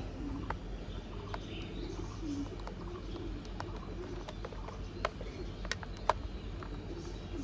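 Small screws being driven into a plastic toy car body with a screwdriver: scattered light clicks and ticks. Low bird cooing sounds repeatedly in the background.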